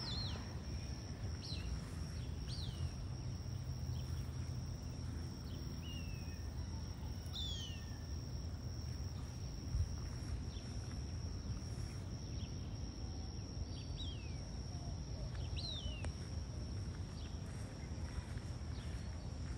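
A bird calling in short, high, downward-slurred notes, one every second or two, over a steady high-pitched whine and a low outdoor rumble. A single bump comes about halfway through.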